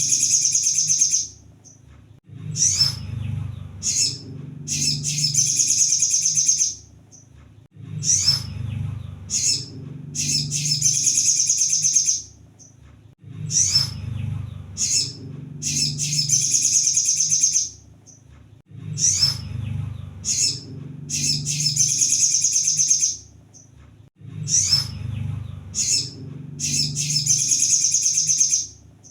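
Crimson sunbird (kolibri sogon) singing in high, fast twittering phrases, each a couple of seconds long, with short sharp notes between them, repeating about every six seconds like a looped recording, over a low hum.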